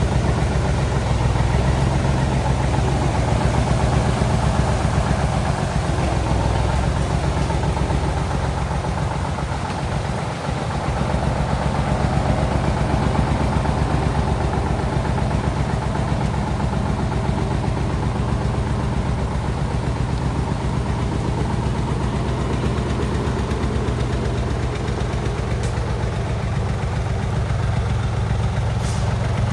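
Heavy truck engine running steadily, with a brief drop in level about ten seconds in.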